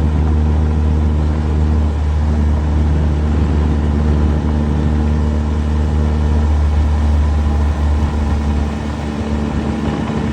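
Small boat's outboard motor running steadily at cruising speed, its drone easing slightly about eight seconds in.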